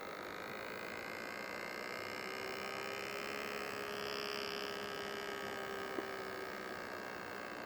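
Water-cooling pump in a custom PC loop running with a steady hum and whine, with a single sharp tick about six seconds in. This is the ticking that the owner suspects comes from debris in the pump or from the pump failing.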